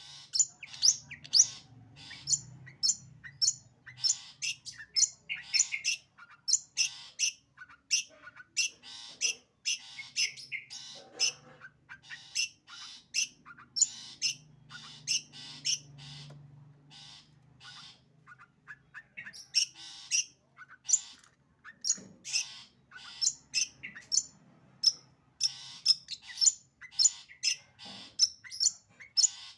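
Long-tailed shrike (cendet) singing in the fast bursting 'sembur' style: a rapid, varied stream of short high chirps and harsh squawk-like notes, with a brief lull a little past the middle.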